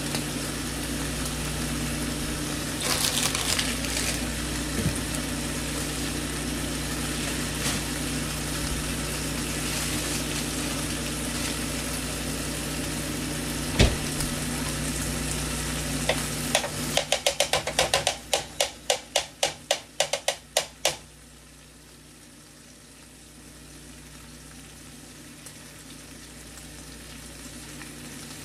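Breakfast frying on the stove: a steady sizzle over a low hum. There is a clatter about three seconds in and a sharp knock near the middle. Then comes a quick run of about twenty even clicks over some five seconds, after which the sound falls much quieter.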